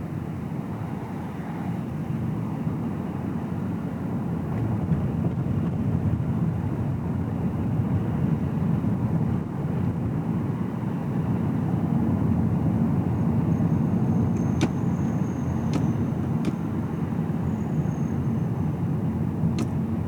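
Car driving, heard from inside the cabin: a steady low rumble of engine and tyre/road noise that grows a little louder a few seconds in. A few faint clicks come in the second half.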